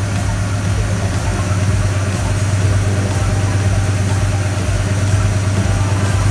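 1966 Chevrolet Chevelle's V8 engine idling steadily, with a low, even pulse.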